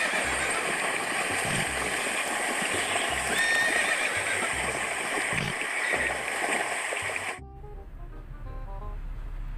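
Horse neighing over a steady rushing noise, which cuts off suddenly about seven seconds in. Soft background music with short plucked notes follows.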